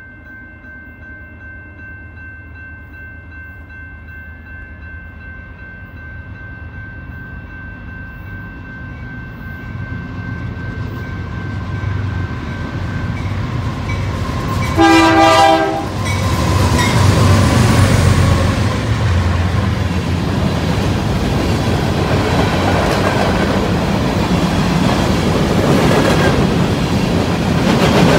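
BNSF freight train approaching and passing, its diesel locomotives growing steadily louder. About halfway through there is one short horn blast. Then the locomotive engines run past, followed by the steady clatter of the loaded grain hopper cars' wheels on the rails.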